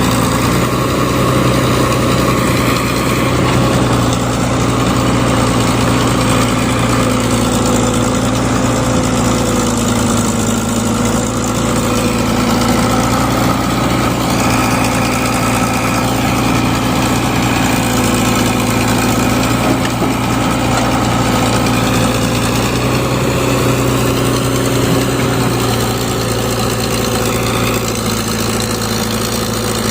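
Diesel engine running steadily at a low, even speed, its pitch sagging and recovering slightly a few times.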